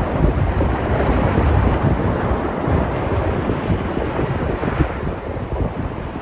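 Sea surf washing steadily against the shore, a continuous rushing with a deep rumble. Wind buffets the microphone, and a slightly brighter wave wash comes near the end.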